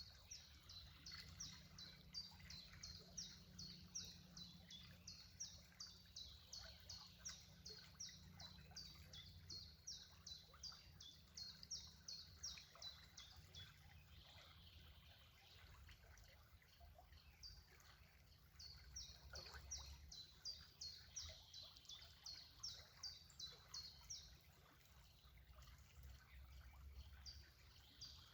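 A bird calling in long runs of short, high, repeated notes, about four a second, pausing twice and starting again, over faint trickling water.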